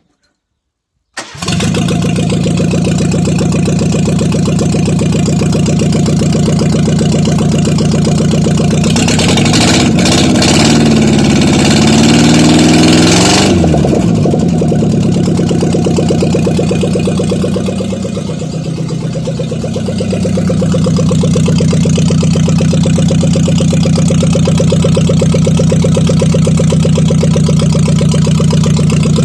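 A 1974 Renault 4's 852 cc four-cylinder engine running with no muffler, so the exhaust is unsilenced. It fires up suddenly about a second in and idles steadily. It is revved up for a few seconds midway, its pitch rising and falling, then settles back to idle.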